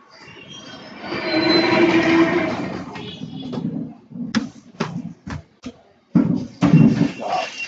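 Paper being folded and creased by hand: a long rustling swell for the first few seconds, then a run of crisp crackles and sharp creasing clicks with soft thumps.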